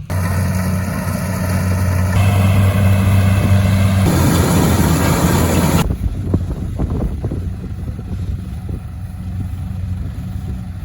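An engine running steadily. Its sound shifts abruptly about 2, 4 and 6 seconds in, then runs rougher and more unevenly.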